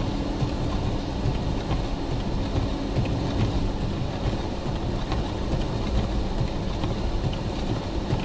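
Steady low rumble of a vehicle driving slowly on a snow-covered road, heard from inside the cab: engine and tyre noise, with a faint hum during the first few seconds.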